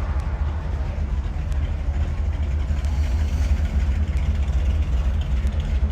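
Car engine idling nearby, a steady low rumble.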